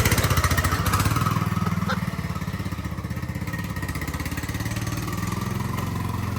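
Riding lawn mower's small engine running with a steady low pulsing, easing down to a lower, even speed in the first two seconds.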